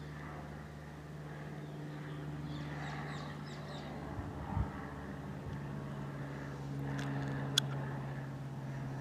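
Cessna 172S Skyhawk SP light plane flying past, its four-cylinder piston engine and propeller giving a steady low drone. Birds chirp briefly about three seconds in, and there is a short thump near the middle and a sharp click late on.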